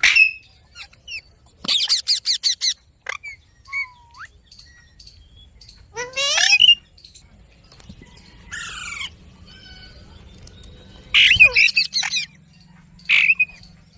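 Pet Indian ringneck parakeet calling: a quick run of chattering notes about two seconds in and again around eleven seconds, with shrill squawks in between.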